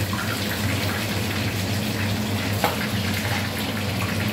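Fish heads frying in hot oil in an aluminium karahi: a steady sizzle over a low steady hum, with a single light knock about two and a half seconds in.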